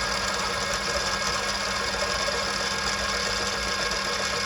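Small milling machine running steadily with a 5 mm cutter milling a brass part: an even mechanical hum with a few fixed whining tones and no change in pace.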